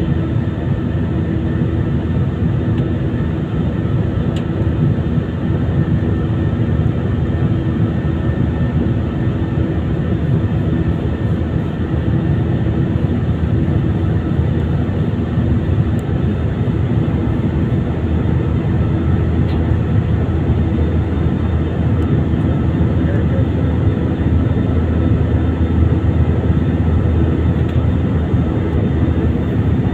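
Airbus A320ceo jet engines and airflow: a steady, even rumble with a few faint steady hums over it, unchanging throughout.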